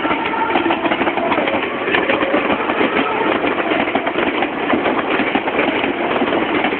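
Meitetsu train running through a level crossing: a steady, loud rush of wheel and rail noise with fast clattering over the rail joints.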